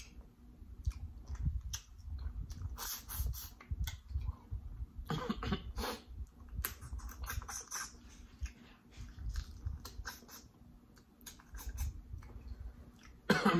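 Close-miked mouth sounds of a person chewing and eating: irregular clicks and smacks with soft low thumps.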